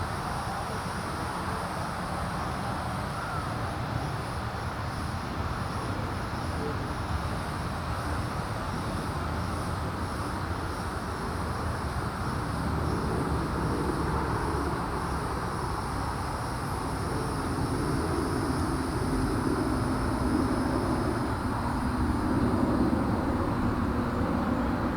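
Outdoor ambience: a steady low rumble and hiss, with a vehicle-like hum growing a little louder in the second half.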